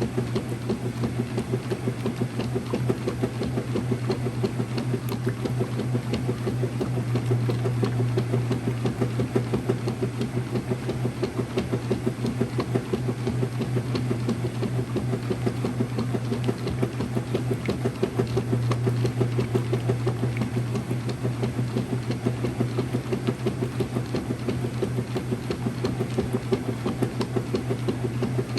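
Early-2000s Whirlpool direct drive washer running, with a steady motor hum and a fast, even mechanical rattle.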